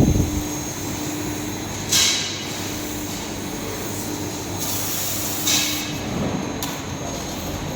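CNC fiber laser cutting machine running with a steady hum, broken by two sharp hisses about two seconds in and again about five and a half seconds in.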